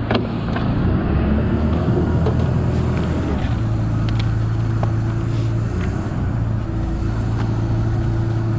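A diesel engine running steadily, with a sharp clunk right at the start and a slight change in its note about three and a half seconds in.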